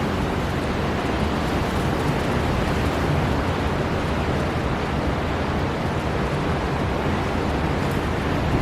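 Storm wind and heavy sea surf in a steady, dense rush with a strong low rumble and no separate breaks or gusts standing out.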